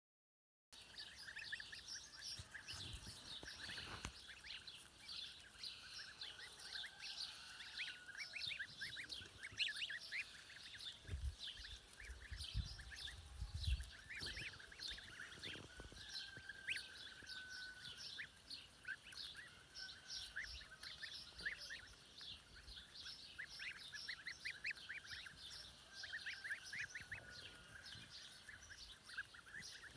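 A flock of domestic poultry calling: many short, high chirps and peeps overlapping without a break, with a few dull low thumps about halfway through.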